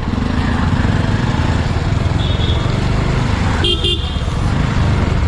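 Motorcycle riding through city traffic, a steady low rumble, with two quick beeps of a vehicle horn about three and a half seconds in.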